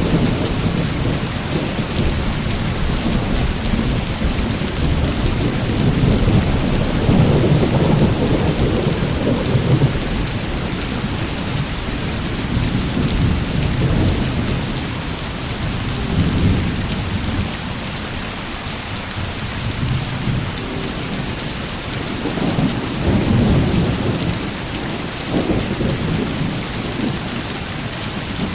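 Heavy rain pouring steadily, with low rolling thunder that swells and fades several times.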